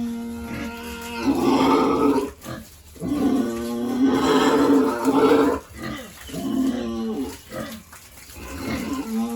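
Pigs squealing in a run of long, loud calls, one after another with short breaks between.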